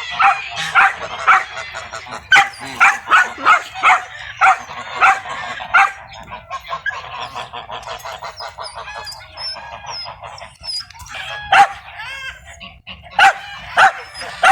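Geese honking loudly over and over, about twice a second, mixed with a dog barking. In the middle the loud calls give way to a quicker, softer run of fowl calls before the loud honking returns near the end.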